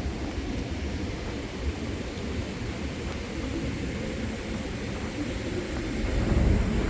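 City street ambience: a steady low rumble of passing traffic, growing louder about six seconds in.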